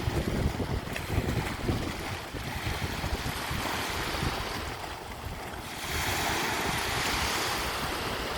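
Sea waves breaking and washing up a beach, the surf swelling again about six seconds in, with wind buffeting the microphone as a low rumble.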